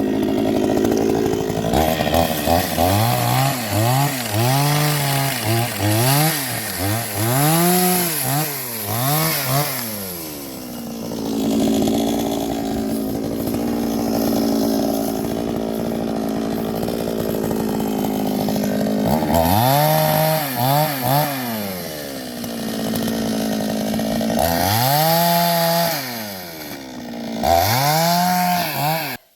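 Small two-stroke chainsaw cutting firewood. The throttle is blipped up and down in quick revs about once a second, then the saw runs steadily at high speed for several seconds while cutting. After a second round of revs it cuts off just before the end.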